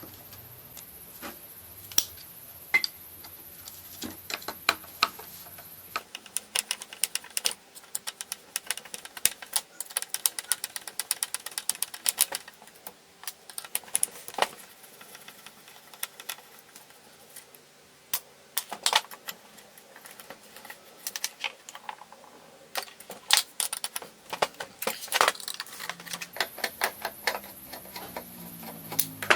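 Irregular metallic clicks, taps and rattles of hand tools and small metal parts being worked on, with a quick run of rapid clicks in the middle. A steady hum with a high whine underneath stops about six seconds in and comes back near the end.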